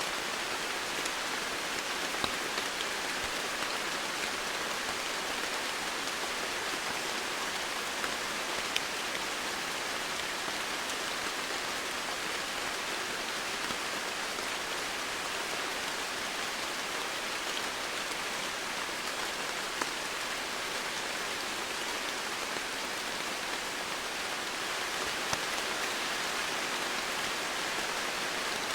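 Steady rainfall, an even hiss of rain with occasional sharper individual drops standing out.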